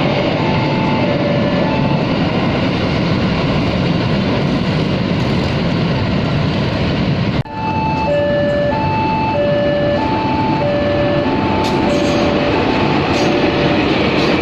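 Freight train of tank wagons rolling steadily past at a level crossing. Over it, the crossing's warning signal sounds an alternating high-low two-tone alarm, plainest in the second half.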